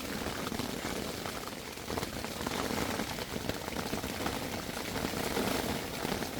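Heavy rain drumming steadily on a tent, heard from inside, a dense patter of many small drop hits.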